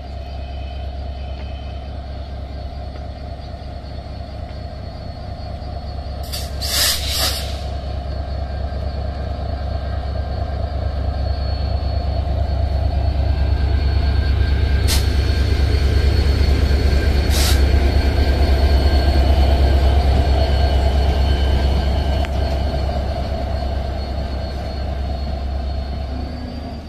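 Departing passenger train rolling past, a steady low rumble that builds to a peak about halfway and then eases off. A brief hiss comes about six seconds in, and two sharp clicks later.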